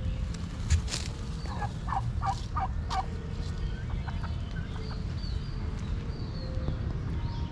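A bird's quick run of about five calls about two seconds in, then scattered high chirps from small birds, over a steady low rumble.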